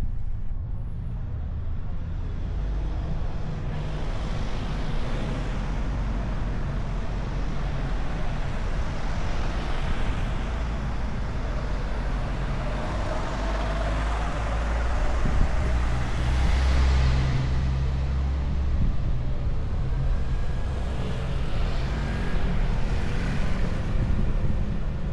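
A car driving along a winding road: a steady low engine and road rumble with wind noise, swelling several times.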